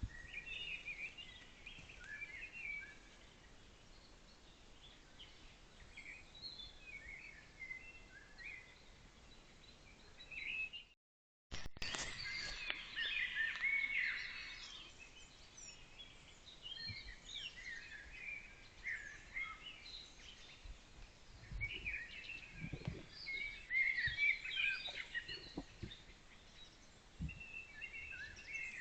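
Wild birds singing in short, overlapping phrases. The sound cuts out for about half a second near the middle, where one recording gives way to the next.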